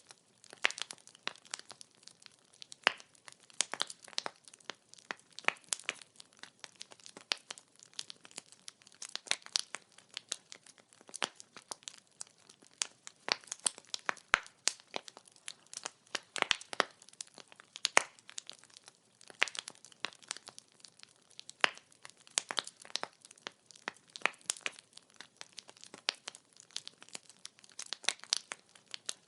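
Firewood burning in an open fire, crackling with dense, irregular pops and snaps over a faint hiss.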